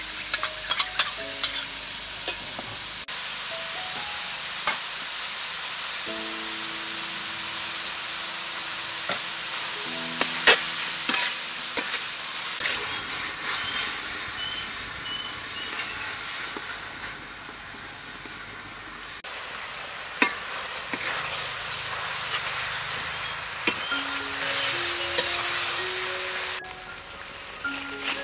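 Minced meat and chillies sizzling in a hot steel wok while a metal spatula stirs them, scraping and clicking against the pan. The sizzle is a steady hiss, quieter for a few seconds in the second half, with sharp spatula clicks scattered through it.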